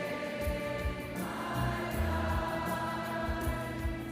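Background music: a choir singing long held chords over a low pulsing bass, the chord changing about a second in.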